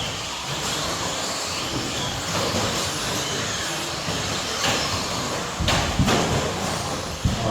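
Electric 1/10-scale stadium trucks with 13.5-turn brushless motors racing on an indoor dirt track: a steady whir of motors and tyres, with a few sharp knocks near the end.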